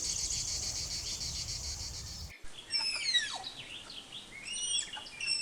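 Insects chirring in a dense, fast-pulsing chorus for about the first two seconds. Then it cuts off abruptly to songbirds calling, a run of quick whistled notes that sweep downward or arch up and down.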